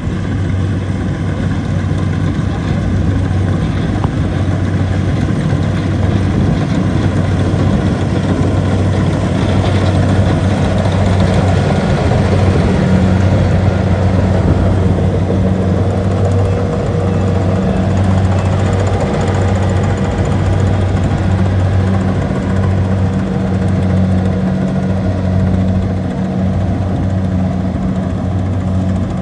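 Kubota DC70 rice combine harvester's diesel engine running steadily, a loud continuous hum.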